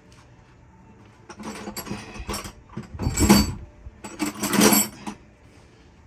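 Metal hand tools clinking and clattering in a few rough bursts, loudest about three and four and a half seconds in.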